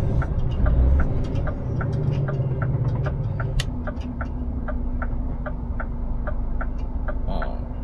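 Truck turn indicator ticking steadily in the cab, about three clicks a second, over the Scania S500's running engine. About halfway through, the engine's deeper note drops away, leaving a steady hum under the ticking.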